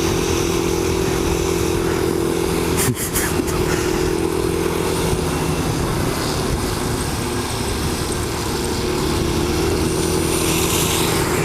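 Motorcycle engine running at a steady cruising speed under a rush of wind noise, its note dipping slightly in the middle and rising again near the end. A single sharp click about three seconds in.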